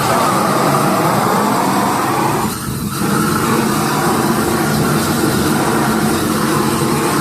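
A motor running steadily and loudly, dipping briefly about two and a half seconds in.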